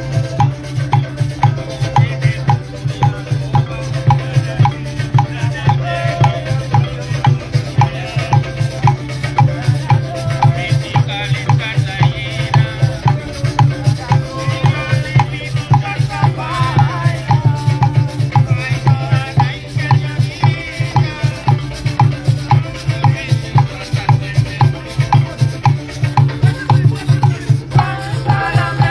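Live band music led by shakers and drums, keeping a steady, quick beat.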